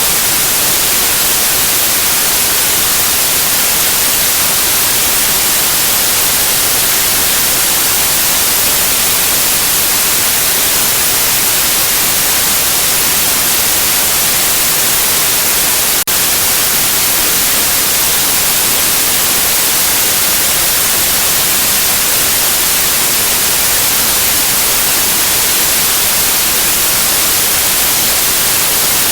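Steady white noise: an even, unchanging hiss, strongest in the high end, used as a sleep sound to soothe a colicky baby. A single faint blip interrupts it about halfway through.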